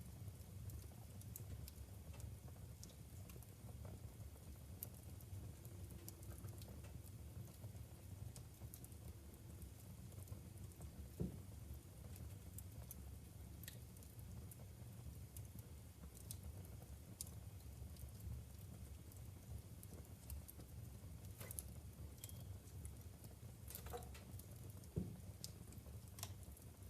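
Logs burning in a wood fireplace: a low steady rumble with scattered small crackles and pops throughout, and two louder pops, about eleven seconds in and near the end.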